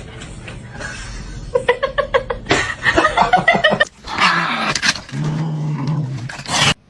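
A pet animal making sounds in short bursts, in clips cut together: a quick run of evenly spaced calls, then a lower, steadier sound near the end.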